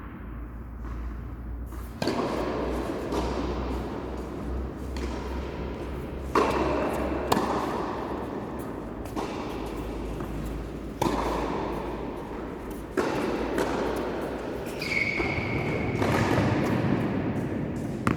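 Tennis balls struck by rackets and bouncing on the court during play: a series of sharp hits at irregular intervals, with a brief high squeak about fifteen seconds in.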